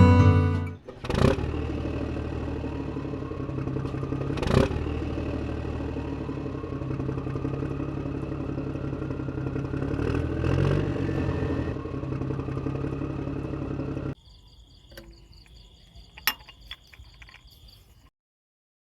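Small toy engine running steadily with a clattering, scraping mechanical sound and a few sharp knocks. It cuts off suddenly about fourteen seconds in, leaving faint ticking clicks.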